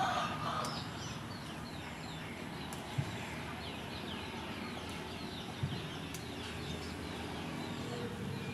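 Small birds chirping over and over in short falling chirps, over a low steady background rumble, with two soft knocks partway through.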